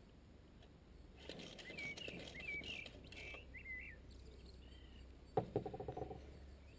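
Birds chirping a few short calls. Near the end comes a sharp knock followed by a quick short rattle, as a steel rebar rod is handled against the reinforcement cage.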